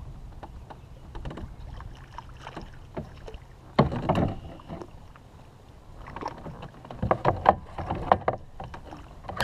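Water splashing and knocks at the side of a kayak. There is one loud splash about four seconds in and a run of quicker splashes and clatter near the end, as a small pike is brought in alongside.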